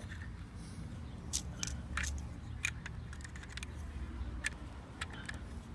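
Scattered light plastic clicks and rattles of Lego pieces being handled after a crash knocked a piece off the toy truck, over a low steady hum.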